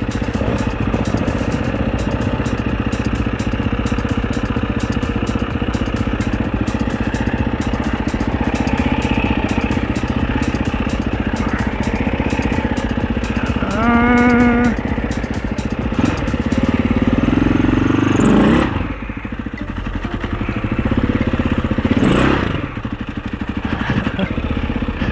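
Husaberg FE 650's big single-cylinder four-stroke engine pulling the dirt bike at low revs over a rocky trail, with a rapid clatter over the first half. About two-thirds of the way in the revs climb, then fall away sharply, and a short blip of throttle follows a few seconds later.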